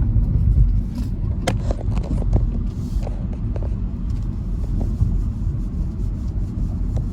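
Steady low rumble of a car's road and engine noise heard from inside the cabin while driving, with a couple of light clicks.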